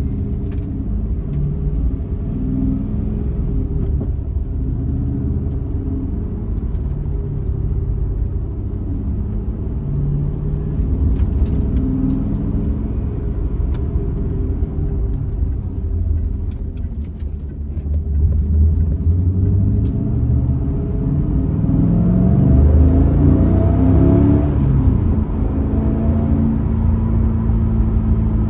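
2002 Pontiac Trans Am WS6's LS1 V8 running under way with low rumble and road noise. About three quarters of the way through the engine pitch rises as the car accelerates, then settles into a steady cruise.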